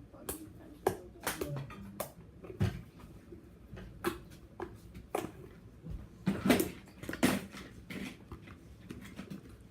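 Slime being squeezed and worked by hand, making a string of irregular wet clicks and pops: a 'clicky' slime.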